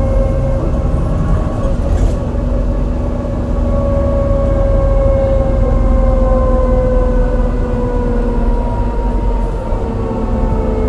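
MAN NL202 CNG bus climbing under load: its ZF Ecomat five-speed automatic gearbox whines over the rumble of the engine, which has a bad misfire. The whine fades a second or so in, comes back, and slowly falls in pitch.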